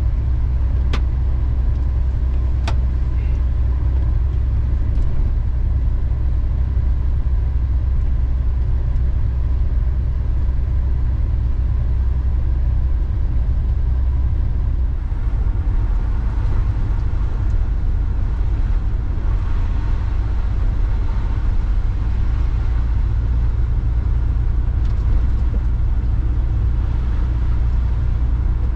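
Motor vehicle engine running steadily, a loud, even low rumble, with a few brief clicks in the first few seconds.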